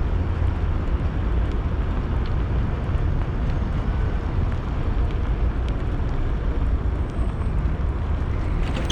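Steady wind rumble buffeting the microphone while riding an electric bicycle, with a low, even rush of air and road noise.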